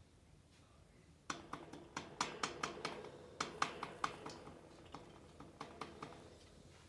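A quick irregular run of sharp clicks and taps, starting about a second in and thinning out toward the end.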